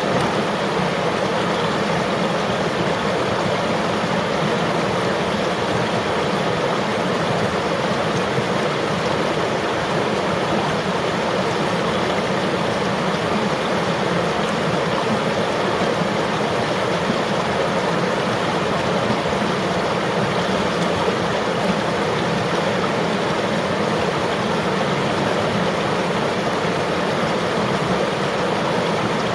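River water flowing steadily, an even unbroken rush of water noise.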